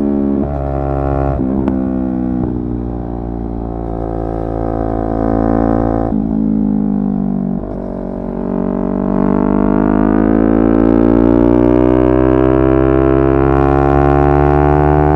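Yamaha R3's parallel-twin engine running while riding. The pitch breaks and dips a few times, then climbs steadily from about eight seconds in as the bike accelerates.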